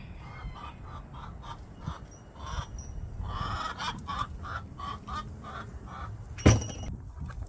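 Chickens clucking in a run of short repeated calls, with one loud thump near the end.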